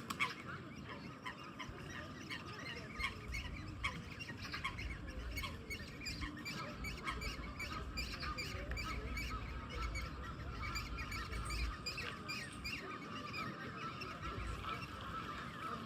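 A flock of ducks or geese calling, with many short calls overlapping in a continuous chatter. A low rumble runs underneath through the middle.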